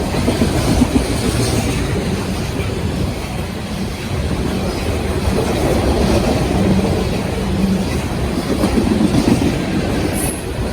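Norfolk Southern freight train rolling past: a steady, loud rumble with the clatter of steel wheels on the rails.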